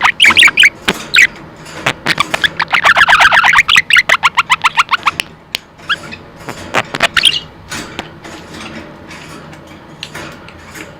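Pet budgerigar chattering: fast runs of clicks and warbling notes, busiest in the first half and sparser and quieter after about seven seconds.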